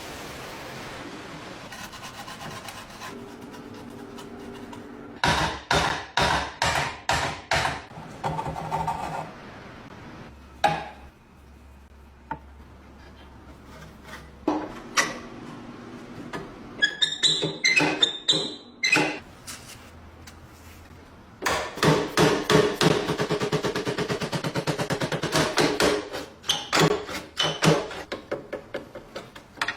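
Hand-tool work on a door lock: bursts of hammer blows, a brief high scrape about halfway through, then a long run of rapid strokes.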